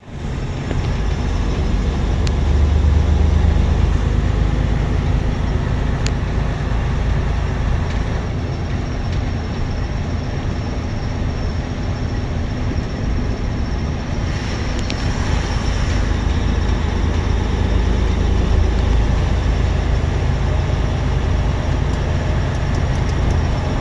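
Vehicle engines running with a steady low rumble and no sharp events.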